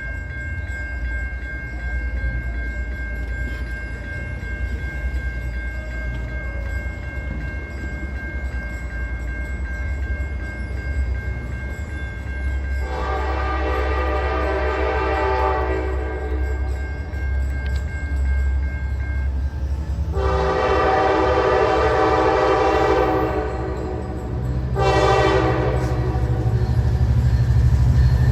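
Norfolk Southern diesel freight locomotive rumbling closer, its multi-note horn sounding two long blasts, a short one, and the start of a final long one: the standard grade-crossing signal.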